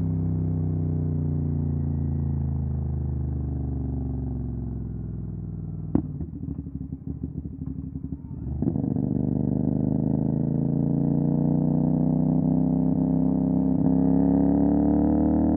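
CFMOTO 450 SR's parallel-twin engine through an MSH G6 full-system exhaust, on the move: the engine note falls slowly as the bike slows, a sharp crack comes about six seconds in, and a couple of seconds of choppy, uneven running follow. Then the pitch rises steadily as it accelerates again.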